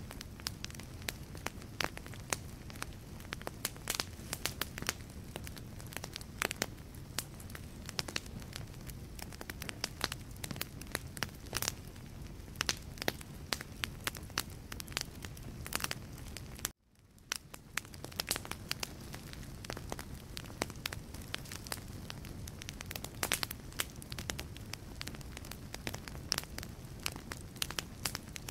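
Wood fire crackling in a fireplace: a dense run of sharp pops and snaps over the low rumble of the flames. About seventeen seconds in, the sound cuts out abruptly and fades back in over about a second.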